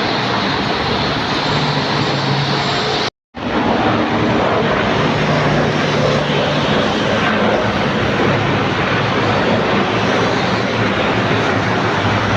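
Jet airliner engine noise: a loud, steady rushing roar. It cuts out completely for a moment about three seconds in, then resumes.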